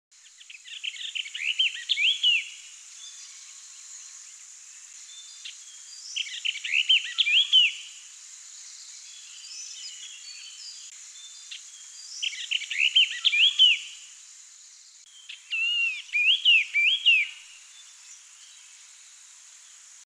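A bird singing four short phrases of quick rising and falling notes, a few seconds apart, over a steady high-pitched background hiss.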